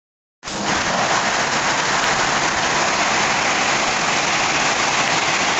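Steady rain falling, an even hiss of drops that starts about half a second in.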